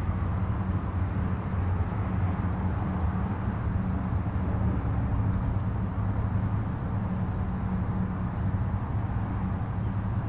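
Distant highway traffic: a steady low rumble of many vehicles with a constant hum underneath and no single car standing out.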